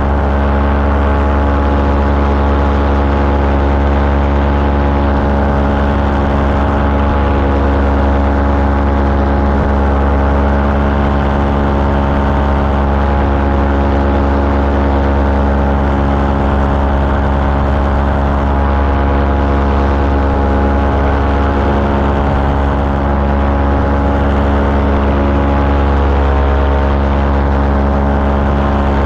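Small aircraft engine and propeller running steadily in flight, an even drone that holds one pitch throughout.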